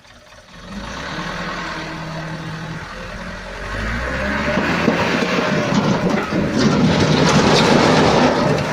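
Dump truck's diesel engine running and revving up, growing louder about halfway through, with rattling and clatter mixed in near the end.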